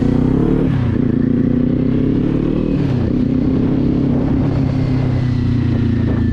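Kawasaki Z400's 399 cc parallel-twin engine pulling away under throttle, its pitch rising and then dropping at an upshift about a second in and again around three seconds in, then running steadily at cruise.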